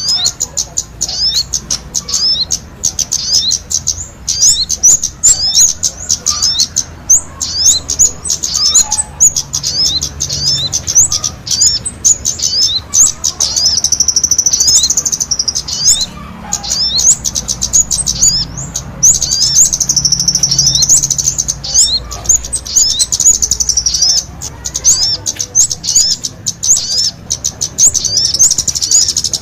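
Kemade and sogon songbirds singing vigorously together: a fast, continuous string of high, short chirps and falling notes, breaking into longer unbroken trills about halfway through and again a few seconds later.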